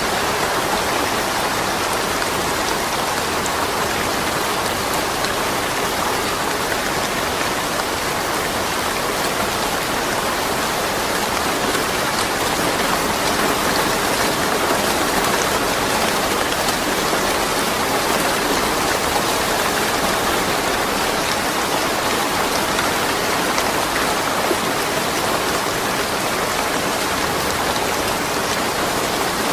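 Steady rain falling and pattering on surfaces, with no thunder.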